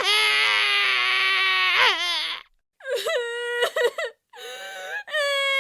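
A person crying in high-pitched wails: one long drawn-out cry of about two seconds that falls away, a brief pause, then a run of short broken sobbing cries, and a new wail starting near the end.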